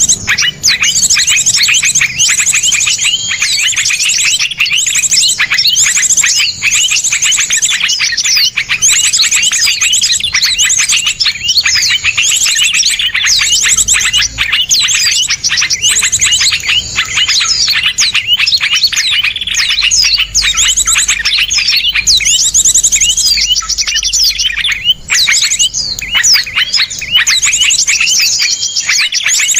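A dense chorus of small songbirds: fast, sharp chirps and trills layered over one another without a break. It is a masteran recording, the bird-song track played to cage songbirds so they learn the calls.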